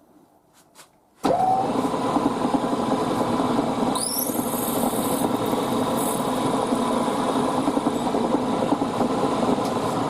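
Milling machine spindle starting suddenly after a couple of faint clicks and running steadily, with a rising high squeal and hiss a few seconds in as an 8.2 mm drill cuts into a brass part.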